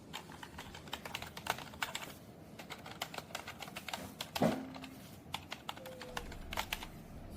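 Typing on a XUNFOX K82 membrane gaming keyboard: irregular key presses clicking, with one louder knock about halfway through.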